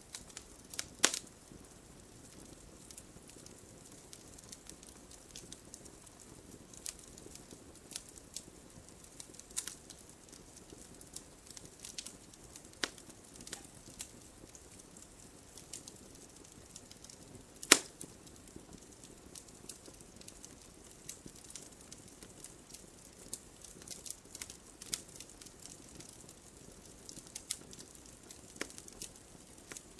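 Wood campfire crackling, with irregular sharp pops scattered through and one loud pop about 18 seconds in, over a faint steady hiss of the burning.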